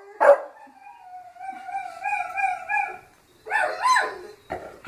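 A dog barks once, then gives a long wavering howl of about two seconds, followed by a shorter howl near the end.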